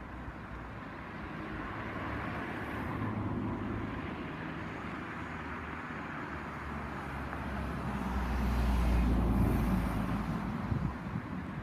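Steady rumble of a large moving vehicle, growing louder and deeper to a peak about nine seconds in, then easing off.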